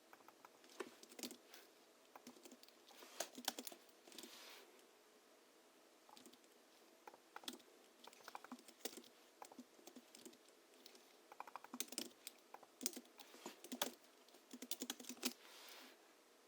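Typing on a Hansung GHL-5X keyboard, its springs lubricated with Krytox 103 and 107 and fitted with 50 g rubber domes, with sound-absorbing sponge in the case. The keys go in quick runs of soft clicks, with brief pauses between them.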